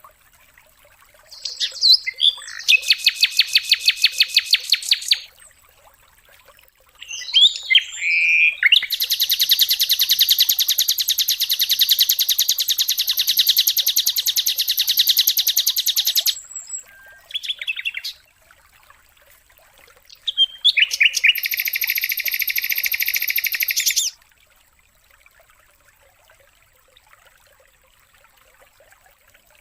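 White-rumped shama (murai batu) song: several bursts of fast, rapidly repeated high trilling notes, the longest lasting about eight seconds. The song stops about five seconds before the end.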